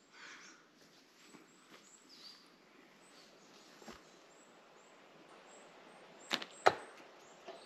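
A catapult shot with a small granite stone: two sharp knocks about a third of a second apart, some six seconds in, against faint bird chirps.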